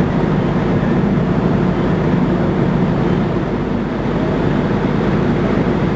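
Fire truck engine running steadily: a loud, even, low drone with no change in pitch.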